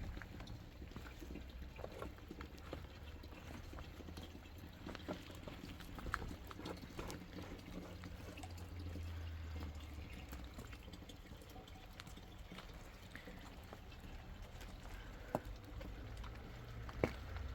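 Water trickling and dripping, with many light scattered taps and a few sharper knocks over a steady low rumble.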